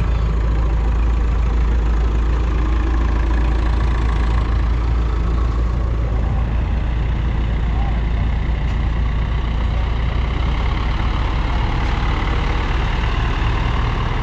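Vintage tractor engine running steadily at low speed, with a deep, even rumble.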